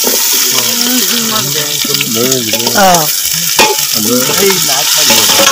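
Chopped onions and tomatoes sizzling as they hit hot oil in a metal pot over a wood fire, stirred with a metal ladle: the oil tempering (oggarane) for a curry.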